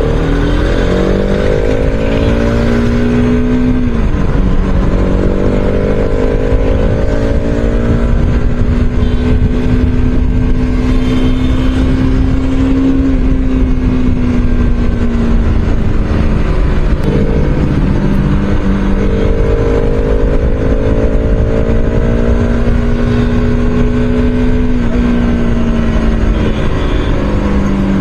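Bajaj Pulsar RS200's single-cylinder engine heard from on board while riding. Its pitch climbs under acceleration and drops back several times as the rider shifts or eases off the throttle.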